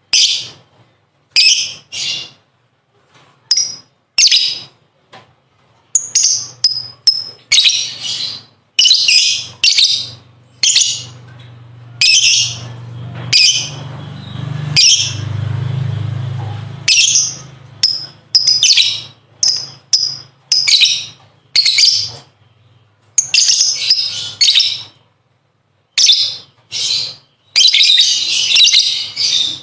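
Lovebird chattering in short, harsh, high-pitched bursts separated by brief gaps, with a longer run of chatter near the end. A low hum sits underneath through the middle.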